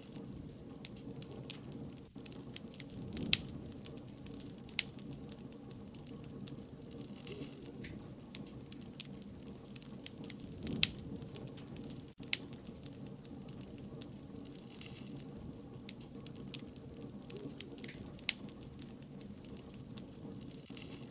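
Wood fire crackling: a steady patter of small pops, with a few louder snaps spread through.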